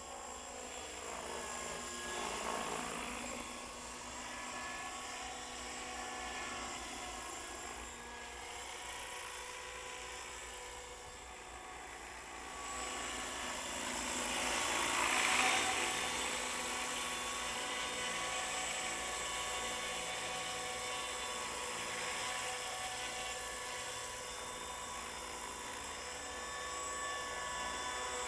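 Hurricane 550 radio-controlled model helicopter with an Agusta A109 scale body, flying: a steady high-pitched whine of rotors and drive. It swells and bends in pitch as it passes close, once near the start and louder about halfway through.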